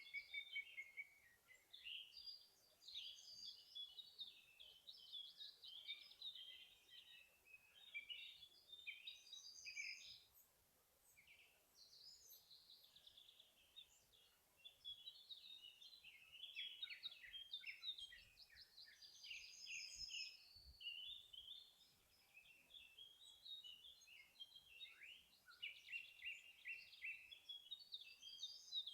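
Several songbirds singing in a forest, faint. Quick chirping and warbling phrases overlap almost continuously, with a brief lull about ten seconds in.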